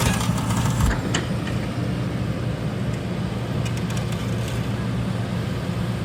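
Diesel engine of a CAT 320 GC hydraulic excavator running steadily with a low hum, with a short knock a little under a second in.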